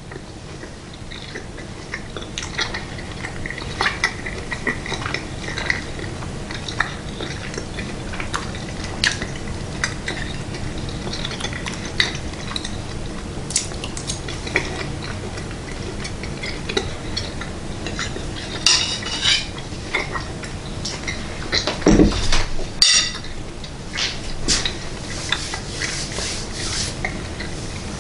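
Close-up chewing of a mouthful of meat, with wet mouth clicks and small clinks of a metal fork against teeth and a plate. A louder knock comes near the end.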